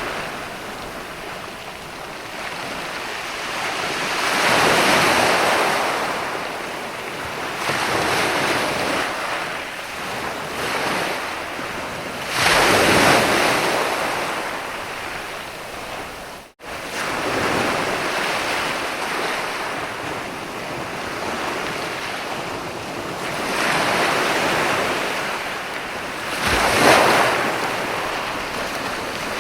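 Sea waves breaking and washing up a beach, the surf rising and falling in swells every few seconds, with the biggest breakers near the middle and near the end. The sound cuts out for an instant a little past the middle.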